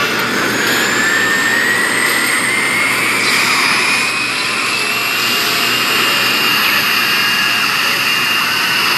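Loud jet-engine roar with a whine that rises slowly and steadily in pitch, like a jet spooling up or passing close.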